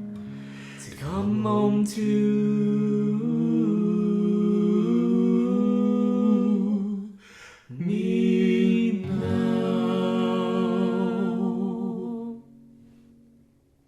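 Voices humming a wordless vocal harmony, unaccompanied, in long held notes that shift pitch now and then. There is a short break for breath about seven seconds in, and the harmony dies away a little before the end.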